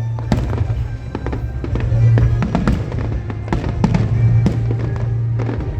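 Fireworks display: a run of irregular bangs and crackles from bursting shells, several a second, with music playing alongside.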